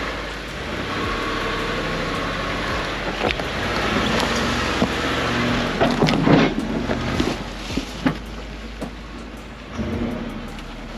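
Off-road vehicle's engine running on a rough dirt trail, over tyre and gravel noise, with several knocks and clatters; the loudest come about six seconds in.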